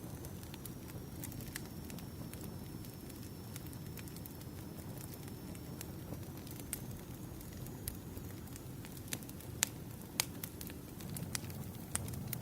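Campfire crackling: a steady low rush of burning wood with scattered sharp pops, two louder ones about ten seconds in.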